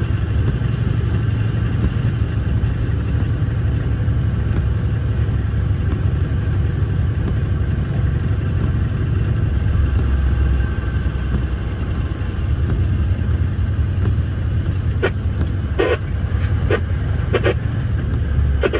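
Steady low rumble of a loaded off-highway logging truck's diesel engine and drivetrain, heard from inside the cab. A few short clicks come in near the end.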